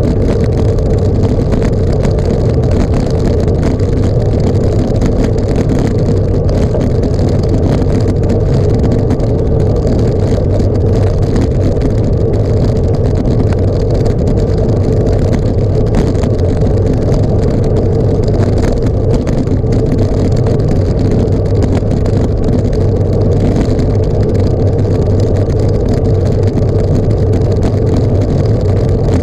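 A vehicle engine running steadily at a constant speed: an unbroken, even drone with no change in pitch.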